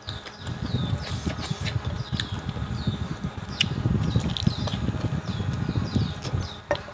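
Close-up chewing and mouth sounds of someone eating a pork and bamboo-shoot dish, dense and irregular, easing off near the end. Short high chirps repeat in the background.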